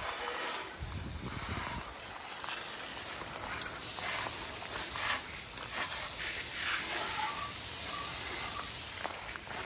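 Steady rushing hiss of wind noise, with a few low gusting rumbles in the first two seconds.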